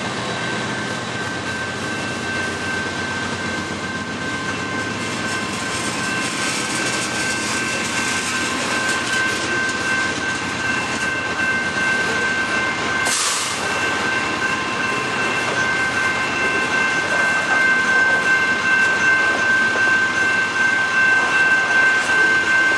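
Loaded covered hopper cars of a potash freight train rolling past, their wheels clattering steadily over the rails, with a steady high-pitched squeal held over the clatter. A brief hiss about thirteen seconds in.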